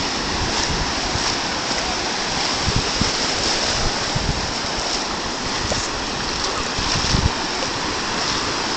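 Ocean surf washing in, a steady rush, with wind knocking on the phone's microphone in a few short low thumps.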